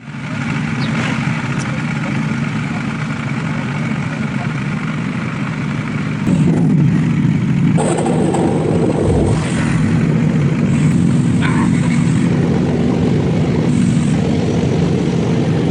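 Motorcycles running, a loud steady drone with noise across the range, growing louder about six seconds in.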